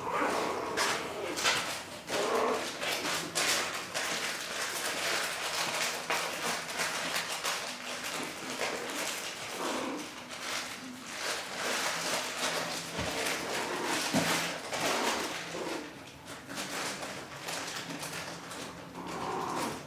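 Chihuahua puppies whimpering and squeaking in short calls, over constant small scratching and rustling as they move about.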